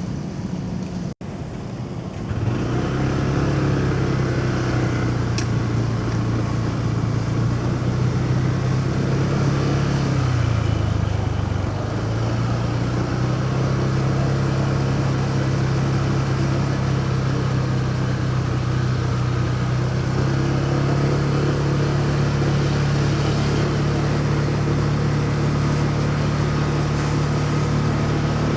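Motorcycle engine running at a steady pitch with road and traffic noise, dipping briefly in pitch near the middle as the bike eases off, then settling back to the same steady note.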